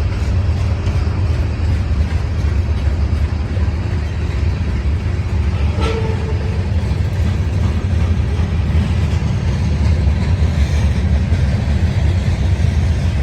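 Norfolk Southern train rolling past with a steady low rumble, and a single brief clank about six seconds in.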